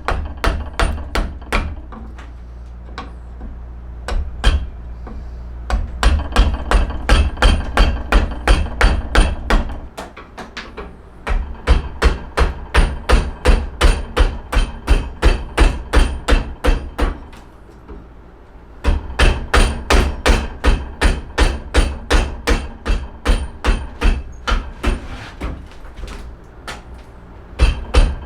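Repeated hammer blows, about two to three a second, in several runs broken by short pauses of a second or two.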